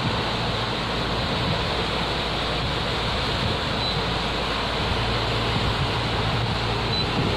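Steady rush of wind on the microphone and water noise aboard a moving boat, with a low steady hum underneath.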